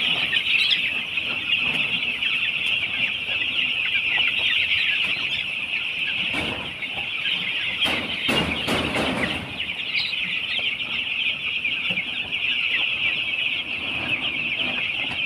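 A flock of week-old chicks cheeping together in a dense, continuous high chorus. There is a brief burst of noise about eight seconds in.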